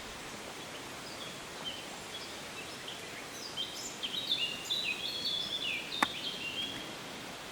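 A songbird singing a quick run of high, stepping notes over a steady background hiss, with a single sharp click about six seconds in.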